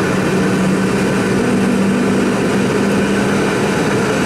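Steady cabin noise of a Boeing 717 in flight, heard from inside the cabin near its rear-mounted Rolls-Royce BR715 turbofans: a constant engine hum under a broad rush of airflow.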